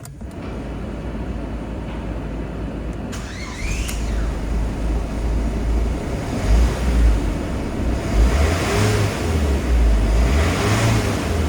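Ford Focus 1.8-litre turbodiesel engine (BHDA) running, coming in suddenly and getting louder. It is revved up twice in the second half.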